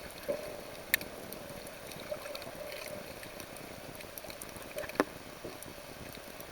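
Sea water around the camera with a steady low hum, broken by two sharp clicks, one about a second in and a louder one about five seconds in.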